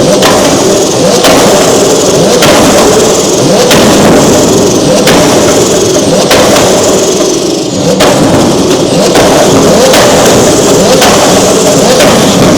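Twin-turbocharged Lamborghini Huracán STO V10 revved hard again and again, with a sharp exhaust bang about every second and a quarter as it shoots flames.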